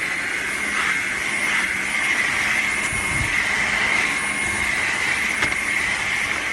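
Dreame H12 Pro cordless wet-dry vacuum mop running steadily while cleaning a muddy hard floor, its motor giving a constant high-pitched whine over a low hum.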